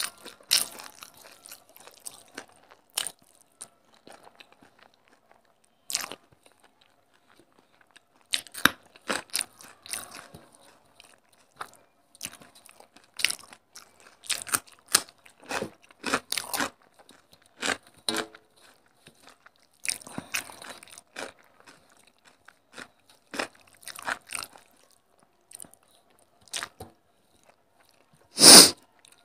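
Close-miked eating by hand: irregular crunching and chewing of mouthfuls of rice and raw cucumber, with fingers mixing rice on a steel plate. One much louder sharp crunch comes near the end.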